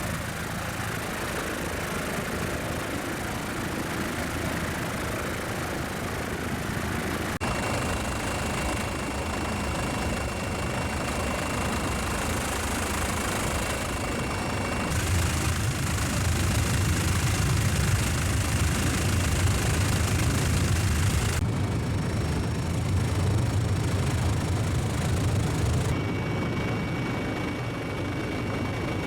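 Helicopter engine and rotor noise heard from inside the cabin: a steady low drone with a thin, high turbine whine, its character changing abruptly a few times where the shots are cut together.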